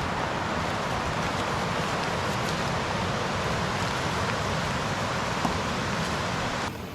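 Steady rushing hiss of heavy rain and running water, with one sharp tick about five seconds in. Near the end it drops suddenly to a softer rain patter.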